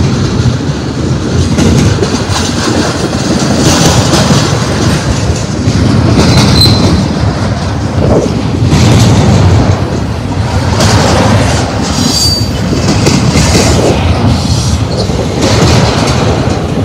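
Double-stack intermodal well cars rolling past, a loud steady rumble of steel wheels on rail. Brief high-pitched wheel squeals come through about six and a half and twelve seconds in.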